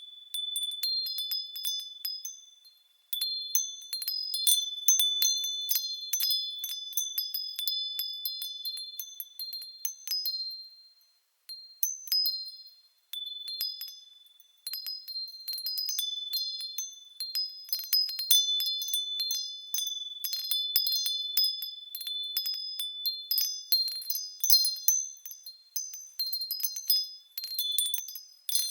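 Japanese fūrin wind chime tinkling in the breeze: irregular clusters of quick, high-pitched strikes with ringing tones, pausing briefly a few times.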